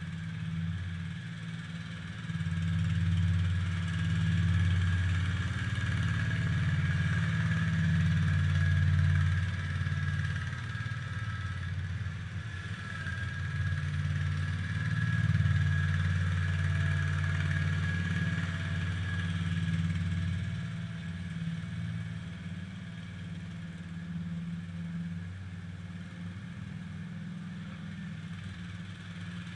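An IH Cub Cadet 147 garden tractor's engine running under load while pushing snow with its front blade. It gets louder about two seconds in and eases back to a lower, steadier note near the end.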